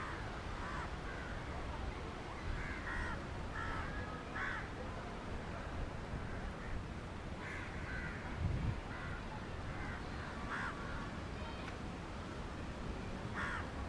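Crows cawing again and again, short calls every second or so, over a steady low background noise, with one brief low thump past the middle.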